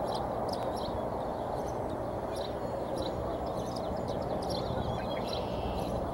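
Short, high bird chirps, several a second, over a steady rushing noise.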